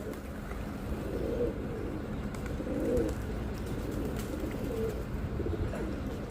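Pigeon cooing: a series of low, soft coos repeating every second or two over a steady low rumble.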